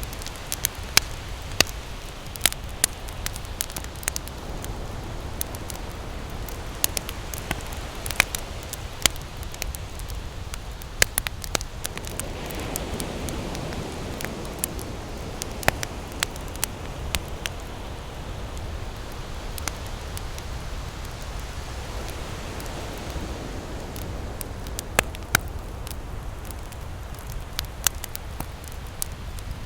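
Campfire crackling and popping with sharp, irregular snaps over a low steady rumble, while ocean waves wash in and swell twice, around the middle and again later on.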